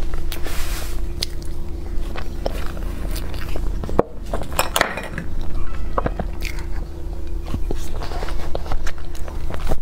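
Close-miked chewing of a mouthful of soft blueberry crepe cake, with wet mouth clicks and lip-smacks scattered through it. A steady low hum runs underneath.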